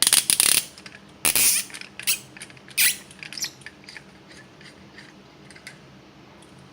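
A wrench turning a seized 7/16 nut off an old Hoffman #7 steam radiator valve, metal squeaking and scraping in short strokes. The loudest strokes come in the first three seconds, then a few light clicks fade away as the nut comes free.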